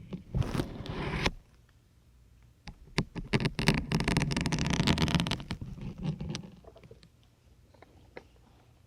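Syringes pushed into a firm grey sponge, giving a crackling, scraping squeak as each one goes in. There is a short burst near the start and a longer run of clicks and crackle from about three to six and a half seconds in, then it goes quiet.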